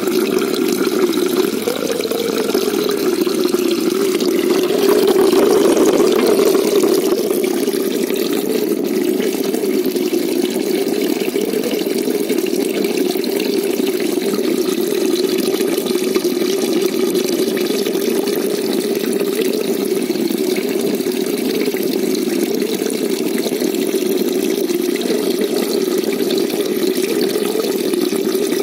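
Steady, muffled rush of moving water in a shallow koi pond, dull and low, with no change throughout.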